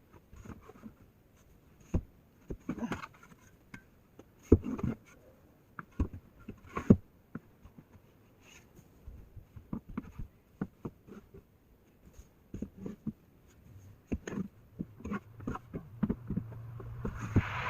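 Irregular light knocks and clicks of things being handled in a small room. Near the end a steady rushing noise rises in, with the low hum of an idling truck engine.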